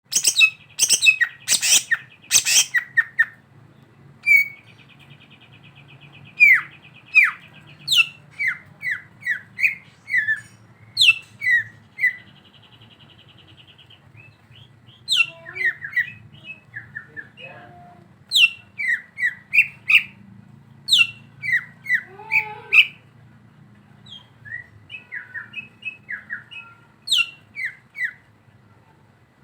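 Greater green leafbird (cucak ijo) singing a varied run of short, sharp, mostly falling whistles and chips. Two buzzy trills of about two seconds each come a few seconds in and again near the middle. A cluster of loud sharp clicks sounds in the first few seconds, over a faint steady low hum.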